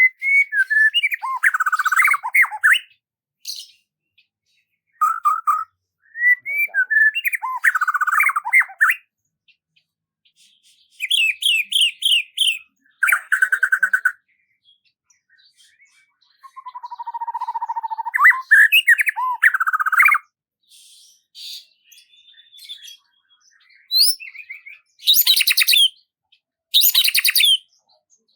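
Songbird singing in separate varied phrases of one to four seconds, with pauses of a second or more between them: whistled and warbled notes, and high trilled phrases near the end.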